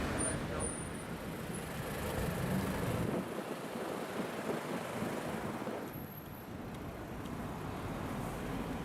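Car and road-traffic noise, with no single engine note standing out. A low rumble drops away about three seconds in.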